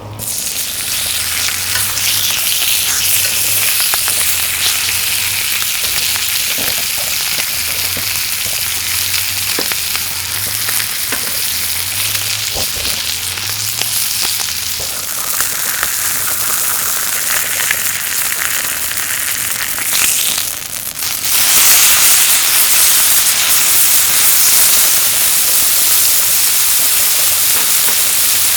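Yakiniku meat frying on a hot surface set on a kerosene heater, with a steady loud sizzle. The sizzle starts suddenly and gets louder again about three-quarters of the way through.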